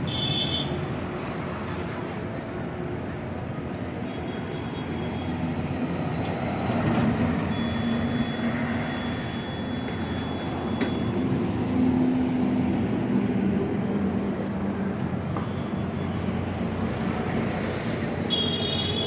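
A vehicle engine running steadily, its low hum swelling and easing through the middle. Short high-pitched tones sound briefly near the start and again near the end.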